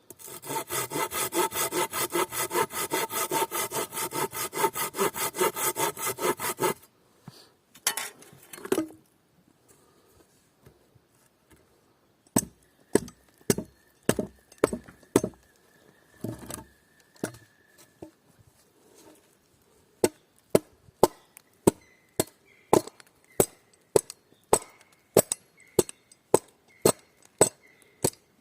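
Hand saw cutting through wood in fast, even strokes for about seven seconds. After a pause comes a run of sharp hammer knocks on wood, about two a second near the end.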